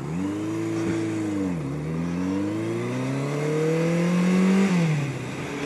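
Yamaha XJ750 Seca's inline-four engine accelerating through the gears. The engine note climbs and drops at a shift about a second and a half in, then climbs steadily for about three seconds and drops at the next shift near the end, with wind noise over it.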